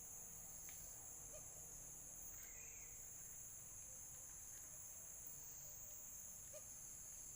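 Faint insect chorus: a steady high shrill trill, with a second, higher trill that breaks off and starts again every few seconds. A soft short chirp sounds about three seconds in.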